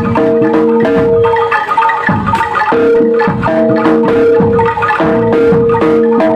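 Gamelan-style ensemble music: a struck metallophone melody in short stepping notes over one long held note, with regular drum strokes.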